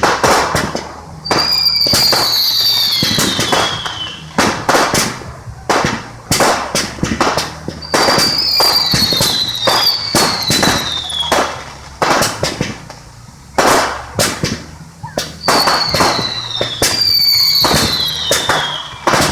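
Fireworks display: a rapid series of loud bangs and crackles, with about six whistling fireworks whose high whistle falls in pitch over a second or two.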